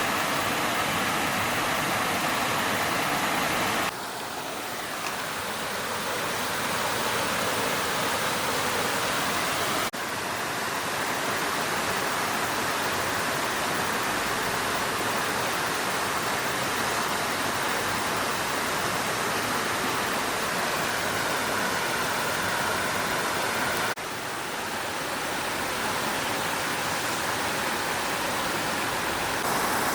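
Stream water flowing over rocks, a steady rushing. It drops suddenly about four, ten and twenty-four seconds in, then swells back each time.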